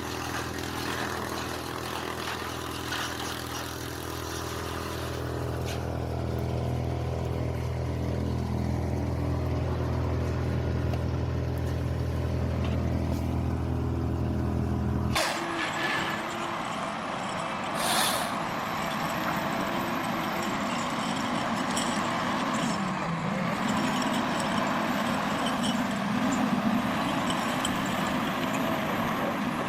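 Forestry tree harvester running with a steady low engine hum. About halfway through it gives way abruptly to a louder, noisier machine sound with a thin high whine that rises and falls.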